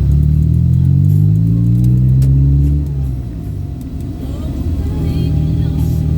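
A road vehicle's engine accelerating, its pitch rising for about three seconds, then easing off about halfway through and settling to a steadier, quieter running.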